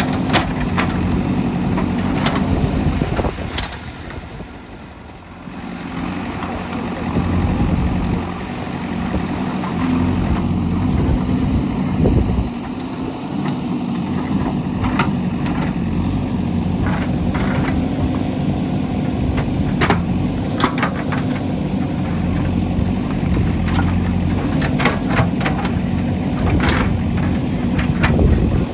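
JCB 3DX backhoe loader's diesel engine running steadily with a low hum, dropping in level for a moment about four seconds in, with scattered sharp clanks and knocks from the working machine.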